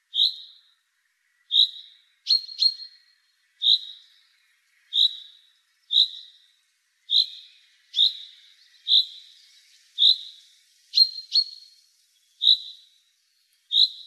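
A small songbird repeating a short, high call about once a second, each call trailing off. Twice, about two and a half seconds in and again near eleven seconds, it gives a quick pair of sharper notes.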